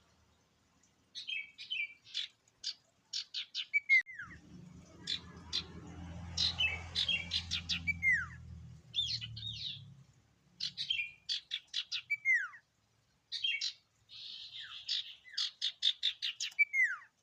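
Sirtu (iora) songbird singing repeated short phrases of rapid sharp chirps, most ending in a downward-sliding whistle, with brief pauses between phrases.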